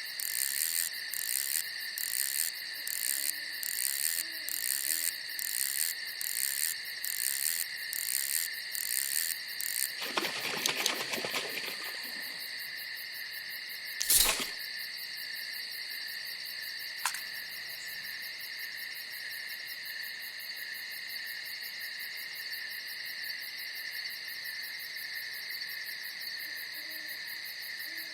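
Night insects calling: crickets chirping in a pulsing rhythm of about two chirps a second for the first ten seconds, over a steady high trill that runs throughout. A short rushing noise comes about ten seconds in and a single sharp knock about fourteen seconds in, and an owl hoots faintly near the start and again near the end.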